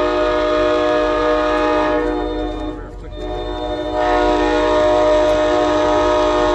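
Locomotive multi-chime air horn sounding a long chord of several steady tones. It fades briefly about two seconds in and sounds again about four seconds in.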